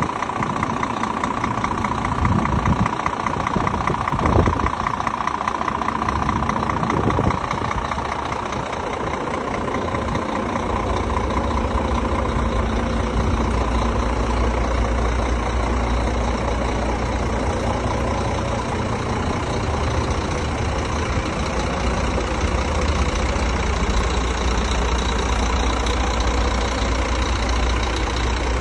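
Scania P360 truck's diesel engine idling steadily, with a few short knocks in the first several seconds. The engine's low rumble grows stronger and deeper from about ten seconds in.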